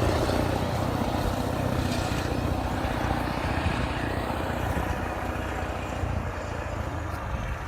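Kirovets articulated tractor's diesel engine running under heavy load while ploughing through deep snow, a steady low drone that grows gradually quieter.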